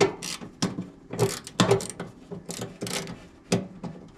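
Irregular sharp metallic clicks and clacks, about a dozen, as a blower motor mount bracket and its screws are handled and lined up on the sheet-metal blower.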